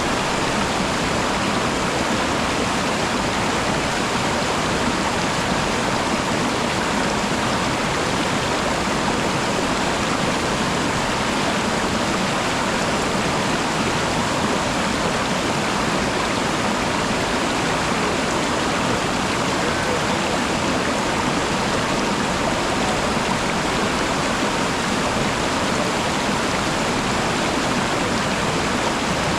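Waterfall: water rushing steadily, without a break or change.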